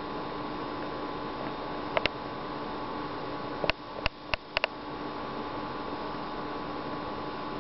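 Steady electrical hum and hiss, broken by a few sharp clicks: two together about two seconds in, then a quick run of five clicks around four seconds in.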